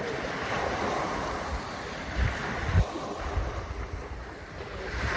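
Wind buffeting the microphone over a steady rushing noise, with two stronger gusts a little past two seconds in.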